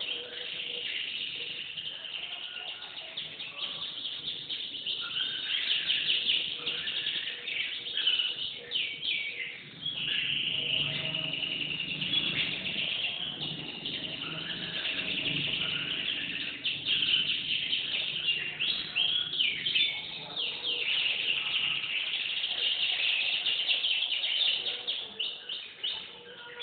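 Canary singing a long, continuous song of rapid trills and chirps.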